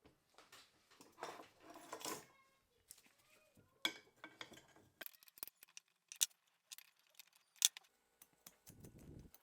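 Small metal parts and tools being handled: a stretch of scraping and rustling, then a string of sharp separate clicks and clinks.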